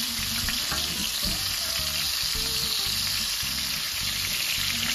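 Shell-on shrimp frying in hot olive oil in a skillet: a steady sizzle.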